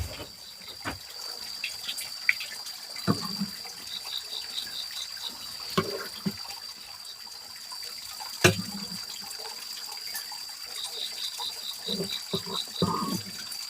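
Scattered sharp knocks and clatters, the loudest about eight seconds in, over a steady high whine. Twice there is a short run of rapid evenly spaced chirping calls, about eight a second.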